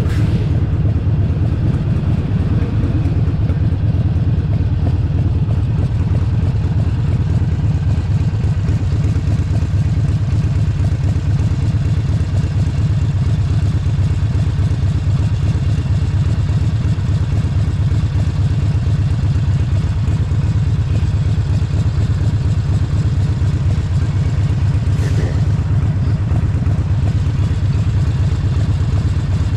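Harley-Davidson Forty-Eight Sportster 1200's air-cooled V-twin engine running steadily under the rider, its low rumble even and unbroken.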